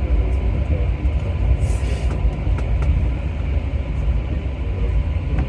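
Rubber-tyred Alstom MP14 metro train running through a tunnel: a steady low rumble with faint clicks, and a short hiss about two seconds in.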